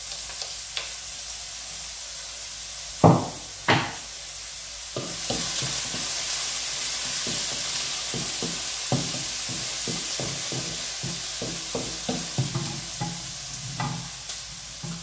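Chopped onion and garlic sizzling in hot cooking oil in a frying pan. There are two loud knocks about three seconds in, then a wooden spatula stirring and scraping in the pan in quick, repeated strokes from about five seconds in.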